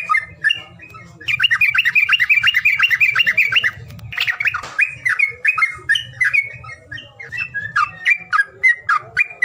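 Songbird calls of the kind played to provoke caged birds into singing: sharp chips and squawks, with a fast rattling run of about eight notes a second from about a second in to about four seconds in.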